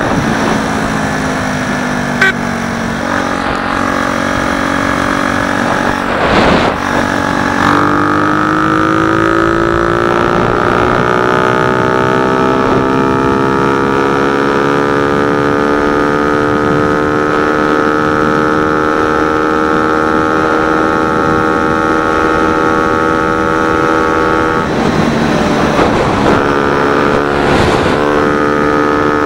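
Orion Gizmo LUX 50/70cc moped engine running steadily under way. Its pitch climbs over a few seconds starting about eight seconds in, then holds, with a short drop and recovery near the end.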